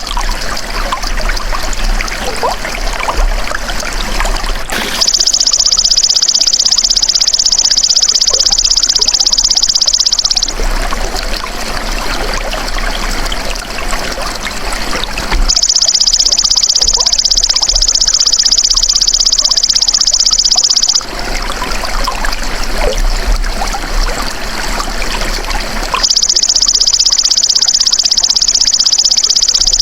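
Belalang emas insect singing a loud, high, rapid buzzing trill in bouts of about five seconds, starting about five seconds in, again around the middle, and once more near the end. Between the bouts there is the steady sound of trickling, flowing water.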